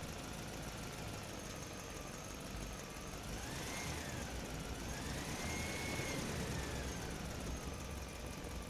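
An engine running steadily, its whine rising and falling twice as it revs up and settles back.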